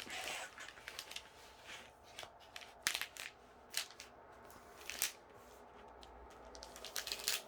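Plastic film and sheets crinkling and crackling as a diamond painting canvas is handled, with irregular sharp clicks that come thicker near the end.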